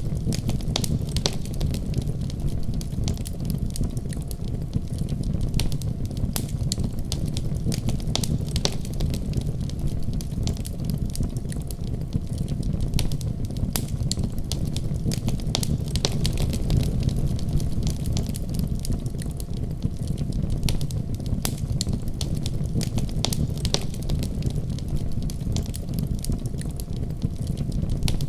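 Wood fire burning steadily in a fireplace, with a low steady rumble of flames and frequent irregular sharp crackles and pops.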